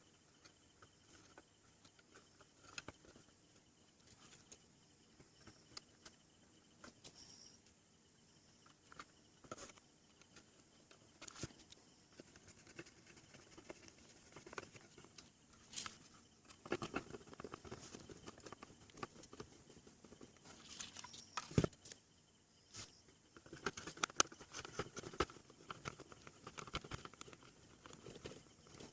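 Scattered faint clicks, taps and rustling, like small parts and tools being handled on a workbench, with a few sharper knocks in the second half.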